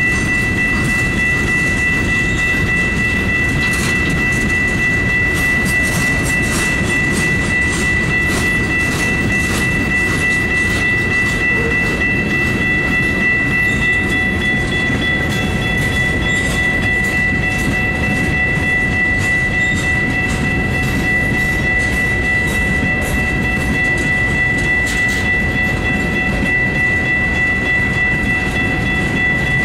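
Freight cars of a Union Pacific rock train rolling past, a steady low rumble of wheels on rail with a steady high-pitched whine throughout.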